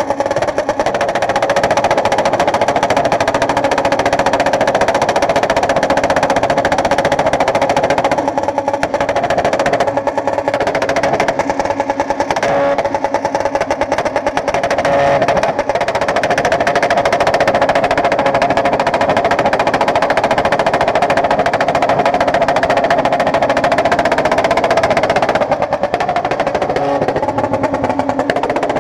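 Motorcycle engine held at high revs against its rev limiter, a steady, fast stuttering note, dipping briefly twice.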